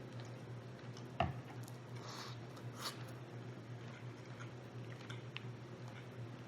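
Close-up eating sounds from rotisserie chicken being eaten: small wet ticks and a couple of short rustles, with one sharp click about a second in, over a steady low hum.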